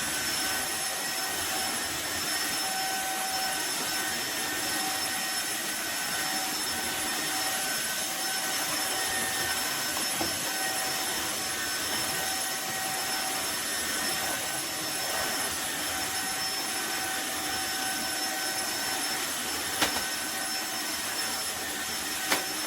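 Tineco iFLOOR 3 cordless wet-dry vacuum mop running steadily, a high motor whine over suction hiss, with two sharp knocks near the end.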